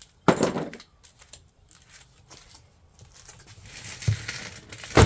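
Cardboard shipping box and its packaging being cut open and handled with a knife: crinkling and tearing. There is a loud rustle just after the start and another at the end.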